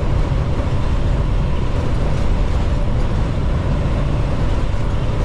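Semi truck cab interior while driving: a steady low rumble of the engine and road noise, even throughout.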